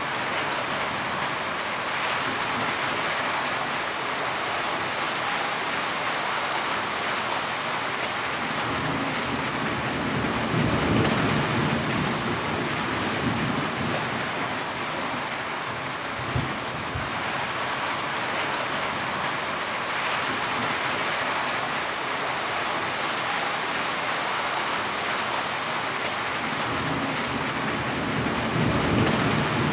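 Heavy rain falling steadily as an even hiss, with low rumbling swells about ten seconds in and again near the end.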